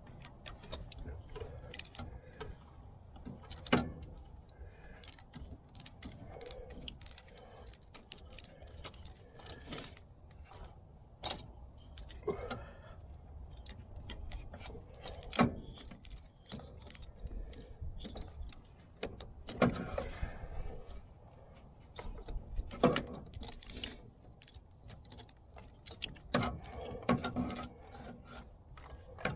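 Irregular clinks, clicks and knocks of hand tools and metal parts being handled during car work, with a few sharper, louder knocks.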